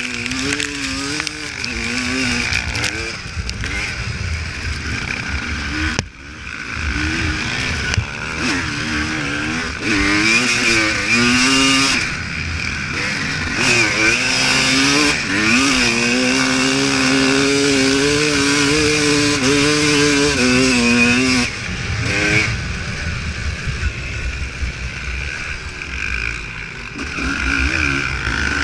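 Honda CR250 two-stroke motocross bike ridden off-road: the engine revs up and down with the throttle and gear changes, rising in pitch in several pulls and holding high for a few seconds in the middle. The throttle briefly shuts off twice.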